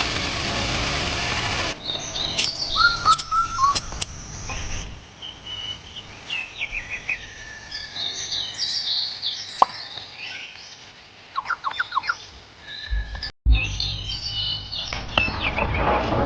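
Birds chirping and calling in short, varied chirps and whistled notes. An even hiss fills the first couple of seconds before the chirping begins.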